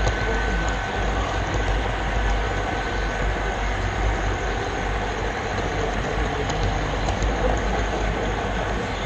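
HO-scale-style model train camera car rolling along the track, picked up by a GoPro riding on the car: a steady rumble of wheels on rail.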